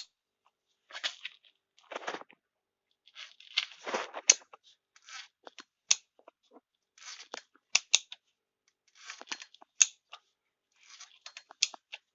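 Repeated scratchy squeaks at the front of a 1.6 BSF petrol engine, roughly one burst a second with sharp clicks in them; the owner takes the squeak for a dry crankshaft oil seal.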